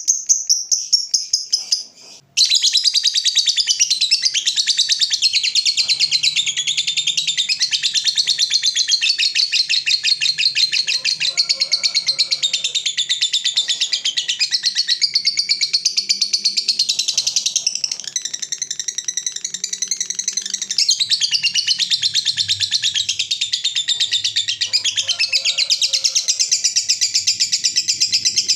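Lovebird giving its long, rapid 'ngekek' chatter, an unbroken run of fast high notes. It begins after a sudden cut about two seconds in; before the cut a fast, even pulsing trill is heard.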